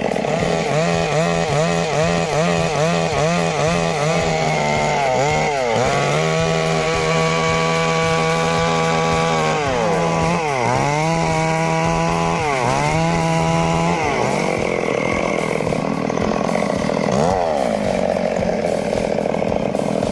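Chainsaw running at high revs while cutting wood. Its pitch wavers quickly up and down for the first few seconds, then holds steady with two brief dips. About fourteen seconds in the steady high note drops away, leaving a rougher, lower sound.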